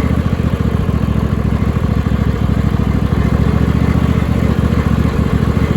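Cub Cadet lawn tractor's swapped-in 26 hp Briggs & Stratton V-twin engine running steadily as the tractor drives along. The owner says this motor doesn't run great.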